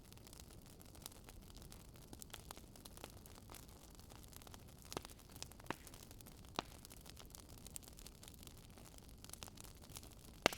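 Fire crackling: a soft steady hiss with irregular sharp pops and snaps, the loudest pop near the end.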